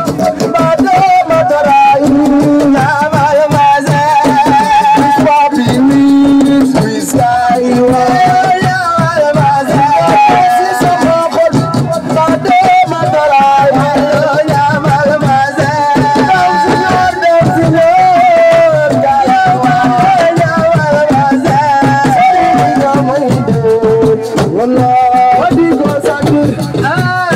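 Senegalese assiko band playing: a singer's voice carries a melody over fast, dense hand-drum percussion.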